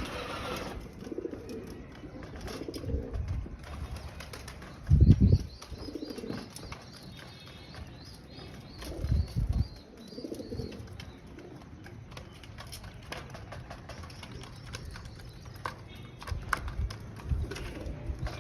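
Pigeons cooing in repeated low calls, with a loud low thump about five seconds in and another near nine seconds.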